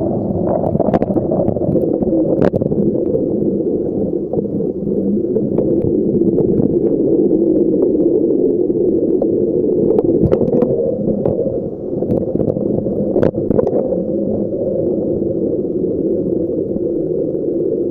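Steady low rumble of a bicycle riding along, heard close to the back wheel: tyre noise mixed with wind on the microphone. A few sharp knocks come through, likely jolts from bumps, the clearest about two and a half seconds in and around ten and thirteen seconds in.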